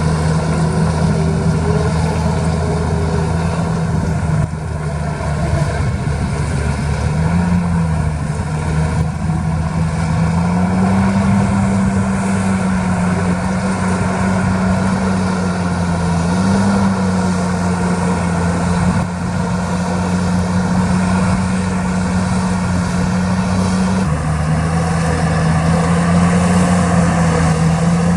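Heavy diesel engine of earthmoving equipment running steadily under load, its revs stepping up about ten seconds in and settling back down near the end.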